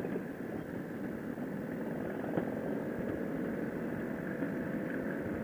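Harley-Davidson Sportster V-twin engine idling steadily.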